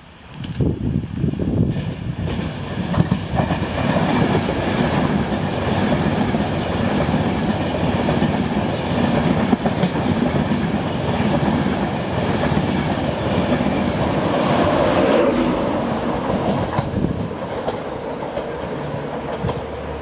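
A passenger train running past on the main line, its wheels clattering over the rails in a continuous loud rumble that eases off over the last few seconds.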